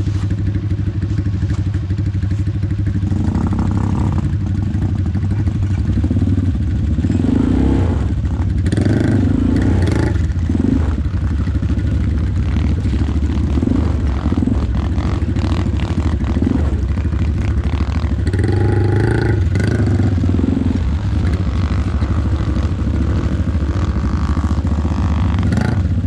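ATV engine running steadily, with scattered clattering knocks from the machine.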